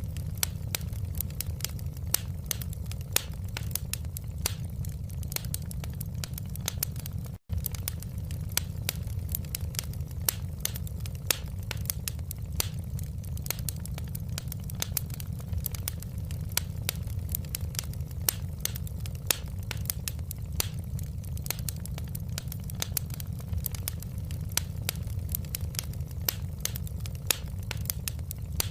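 Wood fire crackling in a fireplace: a steady low rumble under many sharp, irregular pops and snaps, several a second. The sound cuts out for a split second about seven seconds in.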